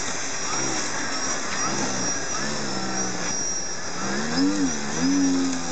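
Battery-electric RC floatplane flying, its motor and propeller giving a thin high whine that wavers in pitch. Low wavering tones come in, loudest near the end.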